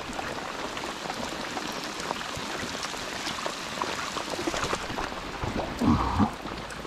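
Steady rain pattering on the river surface and the wet concrete ramp, a dense hiss of small drop ticks. About five and a half seconds in there is a brief louder sound.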